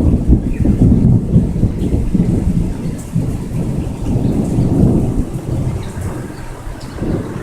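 Thunderstorm: a loud, low rumble of thunder that swells and eases over several seconds, with rain.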